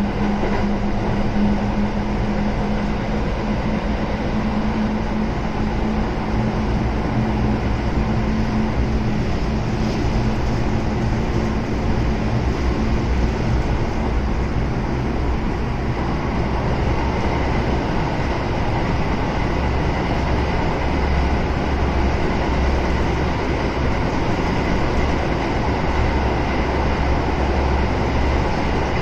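Kintetsu 7000 series train with early Hitachi GTO-VVVF inverter control running between stations: steady rolling and motor noise with low inverter-motor tones. A tone that runs through the first part fades about twelve seconds in, and a deeper hum grows stronger in the second half.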